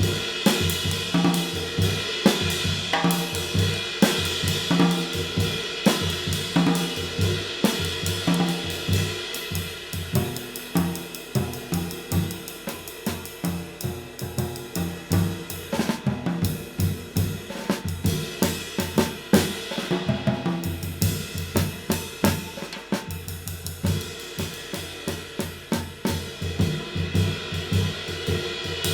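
Drum kit played in a steady groove, with a handmade 20-inch Kamin K-Klasse Light ride cymbal of B20 bronze (1872 g) ringing over snare and bass drum hits.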